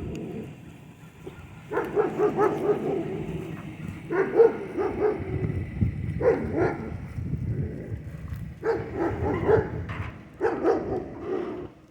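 A dog barking in five rapid volleys of several barks each, with short pauses between them.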